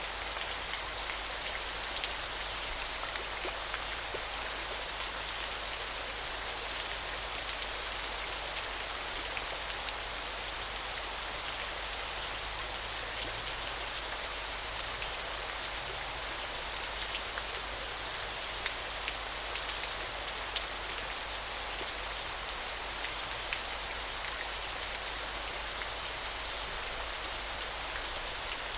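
Steady hiss of running water. From about four seconds in, a thin, high buzzing note repeats in stretches of one to three seconds with short gaps between them.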